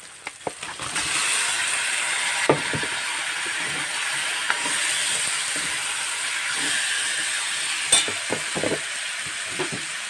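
Raw chicken pieces frying in hot oil in a wok: a loud sizzle starts about a second in and holds steady while they are stirred. A metal spoon knocks against the wok twice, about two and a half seconds in and near the end.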